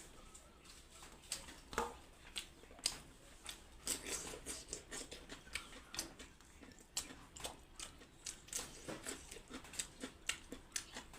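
A person chewing and eating close to the microphone: irregular wet clicks and smacks of the mouth, several a second.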